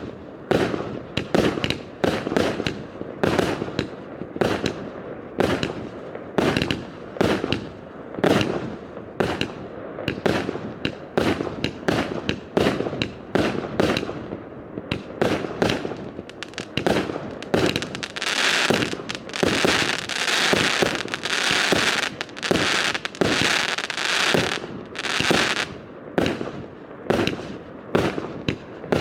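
Yeohwa 'Wyrm Surge' fireworks firing shot after shot, sharp reports coming about once or twice a second. About two-thirds of the way in, a stretch of dense hissing crackle fills the gaps between the shots.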